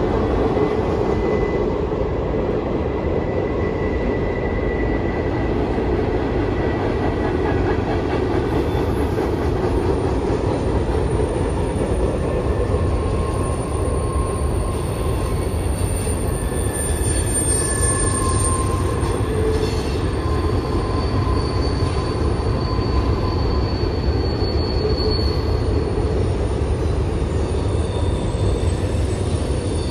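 Freight train rolling past at close range: a steady rumble of steel wheels on the rails, with high-pitched wheel squeal that comes and goes throughout.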